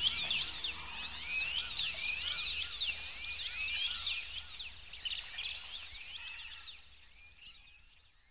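A chorus of small birds chirping, many quick rising and falling notes overlapping, slowly fading away over the second half.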